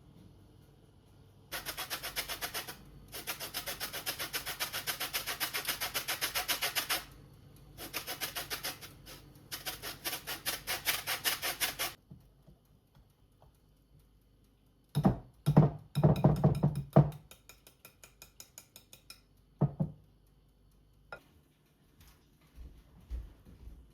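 Rapid, even scraping or rubbing strokes in two long runs, then a few loud knocks and a clatter that slows and dies away.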